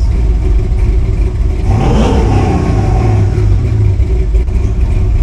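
GM 6.0-litre V8 idling steadily while warming up after a cold start, at about 950–1000 rpm and near operating temperature. The engine sound swells briefly about two seconds in.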